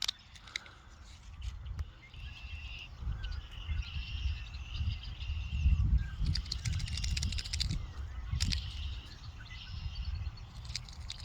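Outdoor backyard ambience: birds chirping in the background over a low rumble of wind on the microphone, with scattered short clicks and rustles, most of them about halfway through.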